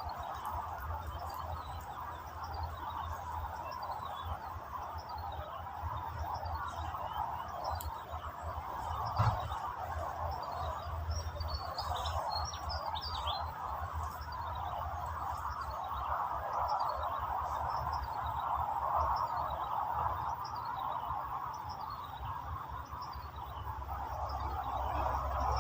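Birds chirping outdoors, short falling calls repeating about once a second with a busier flurry near the middle, over a steady hiss and a low rumble. A single sharp click about nine seconds in.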